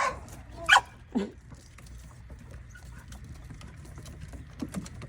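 A few short animal calls: two loud ones about a second in, the second sliding down in pitch, and fainter ones near the end, over a low steady rumble.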